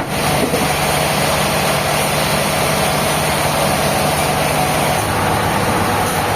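Sawmill machinery running steadily: an even engine drone under a constant noisy whine, unbroken throughout.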